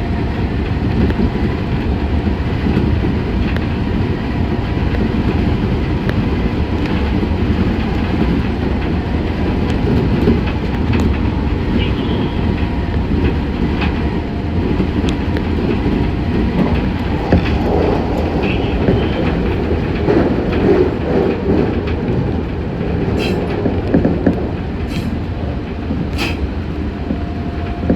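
Meitetsu 6500 series electric train running along the line, heard from inside the car: a steady low rumble with a faint steady hum. A few sharp clicks of the wheels over rail joints come in the second half.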